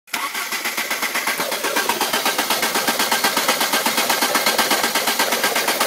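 Rover 25 car engine running with a fast, even pulsing beat.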